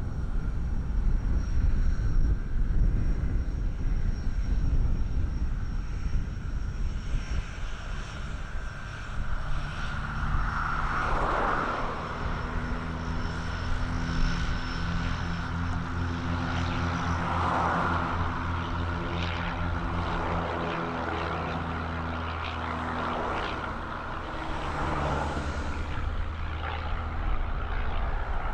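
Propeller airplane passing, its engines and propellers giving a steady buzzing set of low tones that comes in about a third of the way through and fades near the end, over a low rumble.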